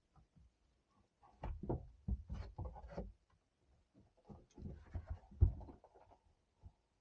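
Hand tools knocking and clattering against the engine as the manifold bolts are worked on: two runs of sharp knocks, the loudest about five and a half seconds in.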